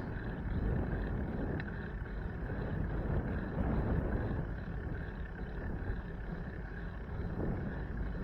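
Steady low rumble of wind buffeting the microphone, with road and traffic noise, while riding a bicycle.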